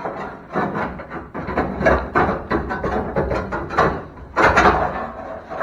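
A sheet-metal patch panel clattering and scraping against the steel cab firewall as it is handled and test-fitted, a run of irregular knocks and rubs, loudest about four and a half seconds in.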